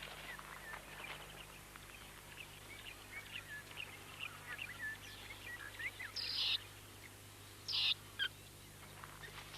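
Quiet natural ambience of scattered small bird chirps, with two short hissing bursts about six and eight seconds in.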